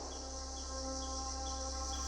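Outdoor nature ambience: a steady high insect trill with a short chirp repeating about twice a second. Soft sustained tones come in underneath within the first half second.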